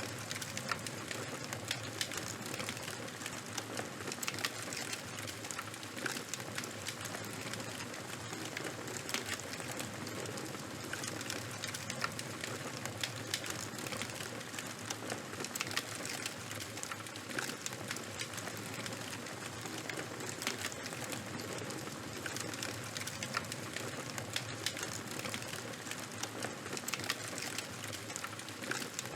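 Charcoal and wood fire burning, crackling steadily with frequent small, sharp pops over a constant hiss.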